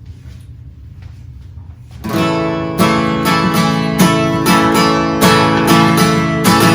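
Strummed acoustic guitar starting an upbeat song introduction about two seconds in, over a low steady pad or hum, with regular chord strokes from then on.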